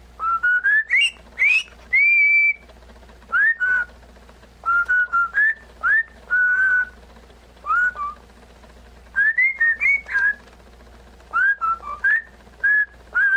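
Pet parrot whistling: short, clear whistled notes, many rising quickly and then held, in clusters separated by pauses of about a second. The highest and longest note comes about two seconds in.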